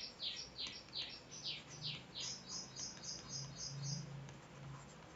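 A bird singing faintly in the background. First comes a run of quick downward-sliding whistles, about four a second, then a fast series of short high notes that stops about four seconds in.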